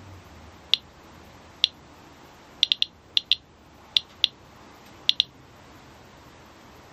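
Radiation Alert Inspector+ Geiger counter clicking at random intervals as it registers radiation counts, about eleven short high clicks, some close together in pairs and a quick triple.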